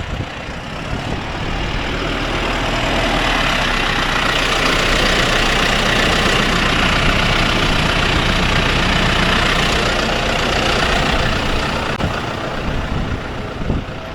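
Tractor engine running steadily while pulling a poultry litter cruster, with a rushing noise from the machine working the litter that swells through the middle and eases near the end.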